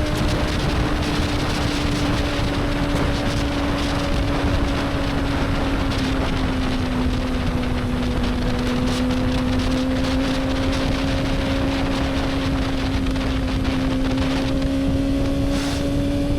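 Motorcycle engine holding a steady cruising speed, its pitch dipping slightly around the middle and creeping back up, under a constant rush of wind on the microphone.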